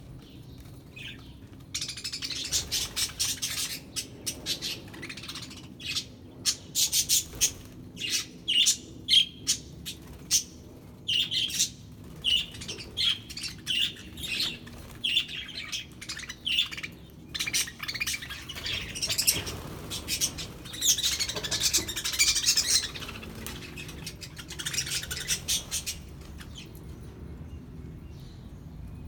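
A flock of budgerigars chirping and chattering: quick, high, overlapping chirps, with a few squawks. The chatter picks up about two seconds in and thins out near the end.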